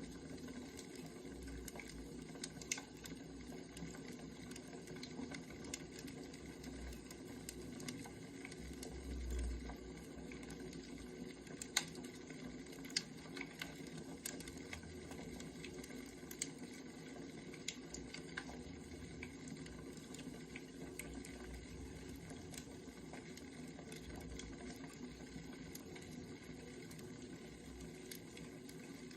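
Wood fire crackling steadily, with scattered sharp pops, the loudest about twelve seconds in.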